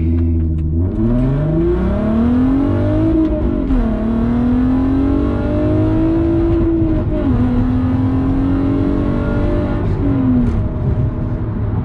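A 2004 VW R32's 3.2-litre VR6 with its catalytic converter removed, heard from inside the cabin accelerating hard through the gears. The engine note climbs steadily in pitch and drops at each of three upshifts, roughly every three to four seconds.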